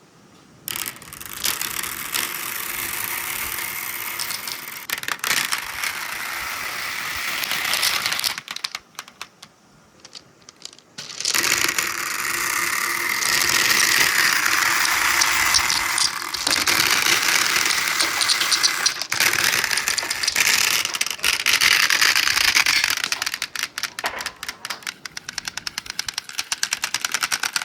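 Marbles rolling and rattling along the tracks of a handmade marble run, in two long runs with a short lull between them. Near the end the sound breaks into a quick string of sharp clicks as balls knock against one another.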